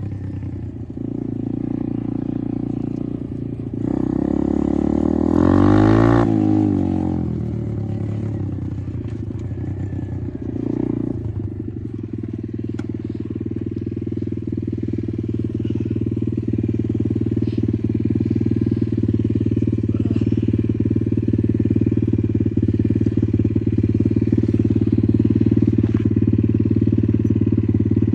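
Apollo RFZ 125 dirt bike's single-cylinder four-stroke engine under riding: the revs rise and fall sharply around five seconds in, blip again near eleven seconds, then hold steady at constant throttle.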